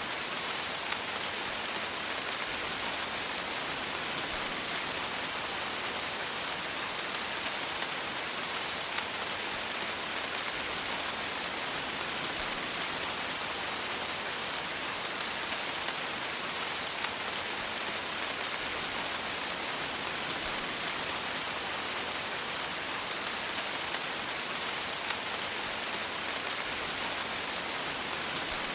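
Steady rain falling, a dense even patter of raindrops with many small faint ticks.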